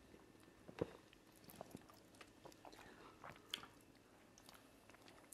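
Faint chewing and wet mouth clicks of people eating cocoyam fufu and ofe nsala soup by hand, with a few soft smacks scattered through, the clearest about a second in and again past the middle.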